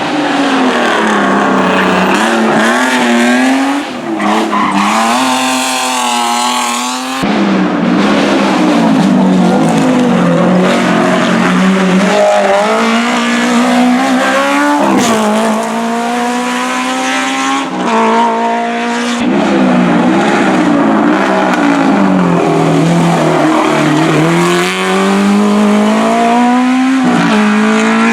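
Hillclimb race cars accelerating hard up the course, the engine note climbing through each gear and dropping back at every upshift, with some downshifting and slowing. The sound cuts abruptly to a different run about 7 and 19 seconds in.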